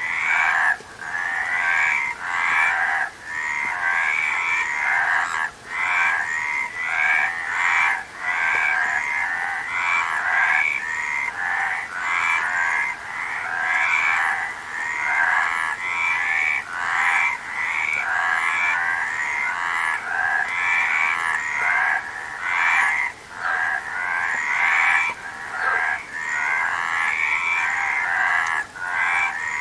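A chorus of frogs calling continuously, overlapping trilled croaks pitched fairly high, with only brief gaps.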